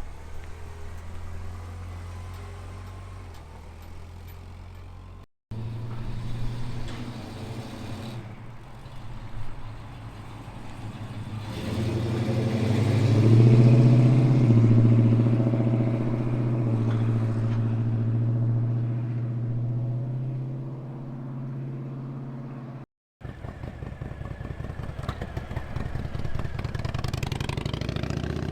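Muscle car exhausts running as cars drive out one after another, in three short clips joined by abrupt cuts. The loudest car swells up about twelve seconds in, peaks, then fades slowly.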